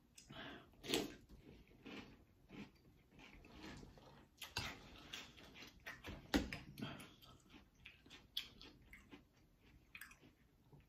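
Quiet, irregular crunching and chewing of a mouthful of Cap'n Crunch Berries cereal in milk, mixed with the spoon clicking and scraping in a glass bowl.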